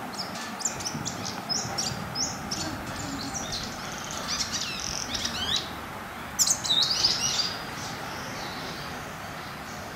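Small birds chirping and twittering: a quick run of short, high calls that thins out after about seven and a half seconds, over a steady outdoor hiss.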